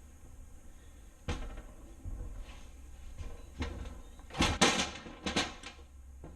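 A series of separate knocks and clunks from parts or tools being handled, with the loudest in a quick cluster about four and a half seconds in.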